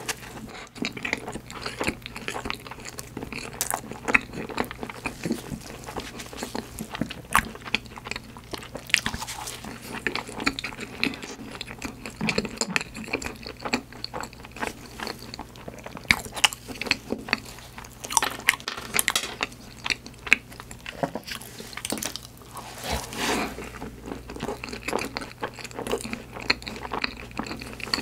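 Close-miked chewing and biting of a plain cream-filled choux puff, a steady stream of small irregular mouth clicks and soft smacks.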